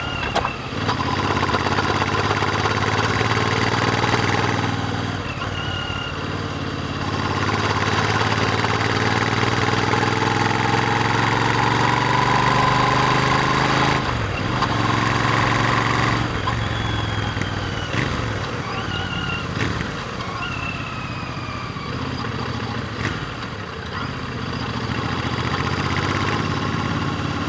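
Royal Enfield Interceptor 650's 648 cc parallel-twin engine through its stock exhaust while riding, revs climbing and falling, with several brief breaks in the note as the throttle is closed.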